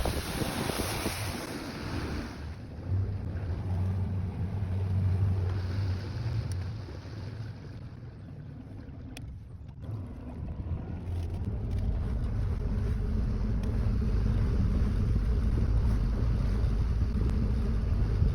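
Boat motor running with a steady low hum, dropping for a few seconds in the middle and picking up again from about halfway on, with wind on the microphone.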